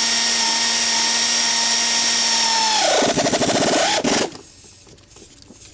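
Power tool running at a steady, high-pitched speed. About three seconds in it drops in pitch with a rapid pulsing, as if bogging under load or winding down, then cuts off suddenly a little after four seconds.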